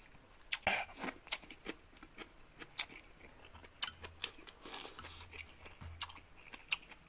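A person chewing a mouthful of ramen noodles close to the microphone: an irregular scatter of short, wet mouth clicks and smacks.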